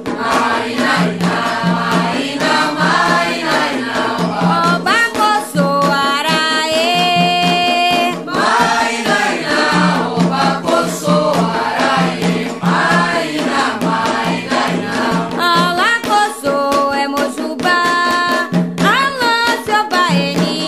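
Candomblé ritual chant for Xangô: voices singing together over a steady percussion rhythm.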